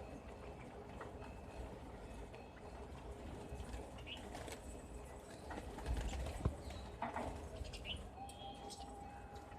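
Birds calling: a few short high chirps and a held, even note near the end, over a low rumbling background. There is a sharp thump about six and a half seconds in.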